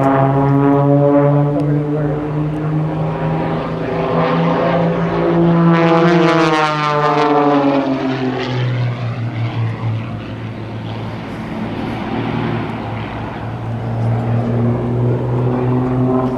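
Two propeller-driven aerobatic planes, an Extra 300S and an MX2, flying formation aerobatics overhead with their engines running hard. About six seconds in, they pass close and the engine pitch drops as they go by, then settles into a steadier drone.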